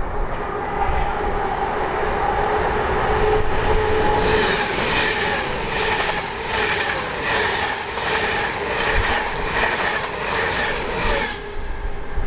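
A train passing at speed on the main line, with a steady whine at first, then a regular beat of wheels over the rails about twice a second as the vehicles go by, cutting off sharply near the end as the last vehicle passes.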